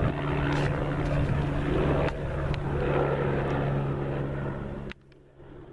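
Propeller aircraft engine running steadily, a low even hum over a noisy rush, which cuts off abruptly about five seconds in.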